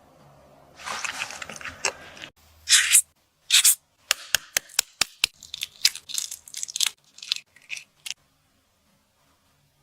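Close-up kitchen handling sounds: a rustle, two short sharp tearing or snipping swishes, then a quick irregular run of sharp clicks and taps. The sound cuts off to dead silence about eight seconds in.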